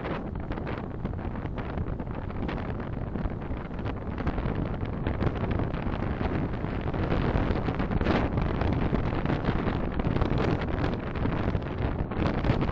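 Steady road and engine noise of a car driving, a continuous low rumble with a rushing hiss, swelling slightly about eight seconds in.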